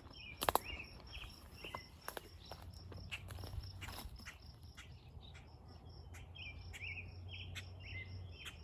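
Insects chirping: a steady, evenly pulsed high chirp throughout, with scattered light clicks like footsteps on the trail and two clusters of short, quick chirps, one near the start and one about two-thirds of the way through.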